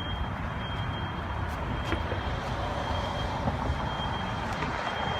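Car driving slowly uphill, a steady engine and road rumble with a faint steady high whine.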